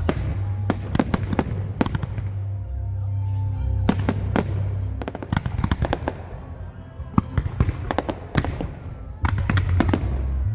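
Fireworks display: volleys of sharp bangs and crackling bursts with short lulls between, over music playing in the background.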